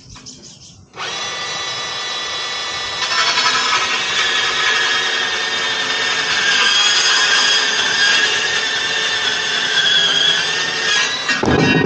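Makita cordless band saw starting up about a second in and running free for a couple of seconds, then cutting through an aluminum solar mounting rail, louder and harsher, for about eight seconds. The cut ends with a clunk near the end.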